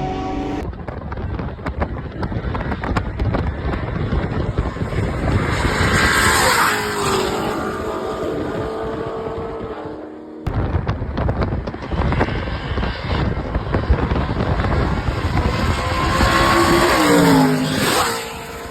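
High-horsepower roll-racing cars running hard past the microphone, engines at full throttle with rushing road noise. Twice, about six seconds in and again near the end, an engine note falls steeply in pitch as a car goes by. The sound breaks off abruptly about ten seconds in and resumes.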